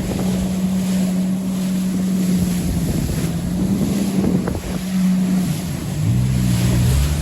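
Jet ski engine running at a steady note, with wind buffeting the microphone and water noise. About five and a half seconds in, the engine note drops lower.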